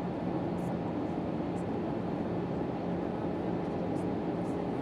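Steady drone inside the cabin of an Airbus A319 in flight: engine and airflow noise with a constant low hum, and a few faint light ticks.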